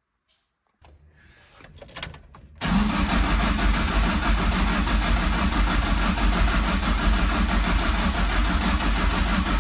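Freshly rebuilt Toyota KE70 Corolla engine cranking briefly and catching about two and a half seconds in, then running steadily on its first start after the rebuild.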